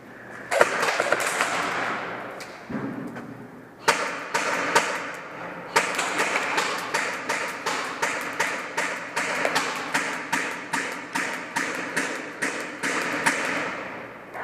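Footsteps of an airsoft player on the move, with clothing and gear rustling between them: a few uneven thuds at first, then a steady walking pace of about two steps a second.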